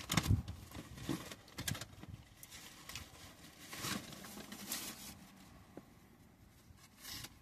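A person chewing a chicken sandwich, with irregular soft mouth clicks and smacks.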